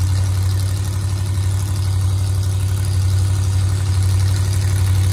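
A car engine idling steadily: an even, low hum that neither revs nor changes.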